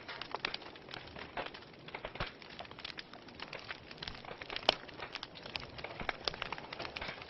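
Wood fire crackling: a steady hiss with irregular sharp pops and snaps, the loudest pop about four and a half seconds in.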